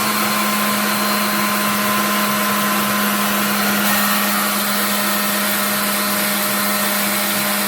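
Conair 1875-watt 3-in-1 styling hair dryer running steadily after spinning up: a steady motor whine over a loud rush of air.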